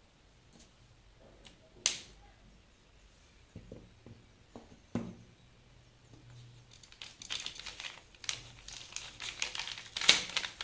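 A few sharp taps, then, from about seven seconds in, a dense crinkling and rustling of thin material being handled.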